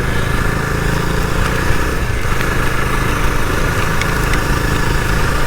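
Bajaj Dominar 250's single-cylinder engine running steadily as the motorcycle is ridden, under a constant rushing noise.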